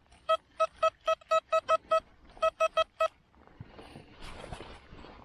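XP Deus metal detector giving a target signal: a run of about a dozen short beeps on one steady pitch, several a second, with a brief pause partway through. A soft rustling follows near the end.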